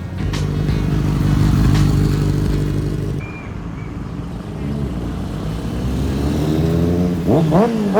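Motorcycle engine running at a steady speed, then revving up and down in quick sharp blips near the end.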